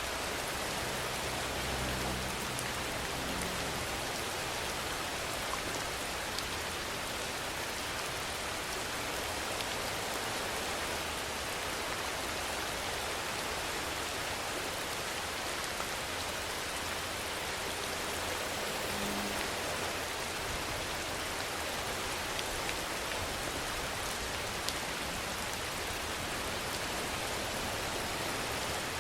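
Steady rain falling in an even hiss, with a few separate drops ticking now and then.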